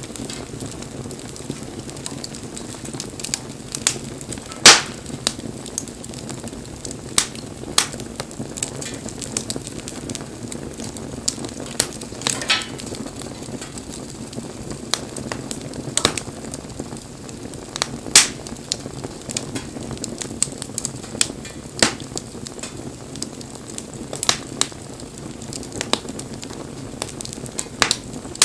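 Wood bonfire burning: a steady soft hiss with irregular sharp crackles and pops, one louder pop about five seconds in.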